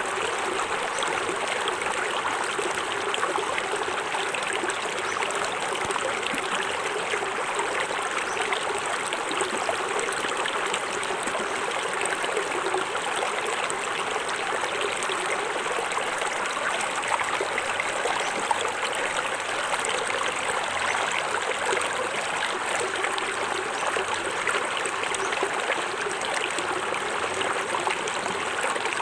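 Small forest waterfall: water splashing and running over rocks in a steady, unbroken rush.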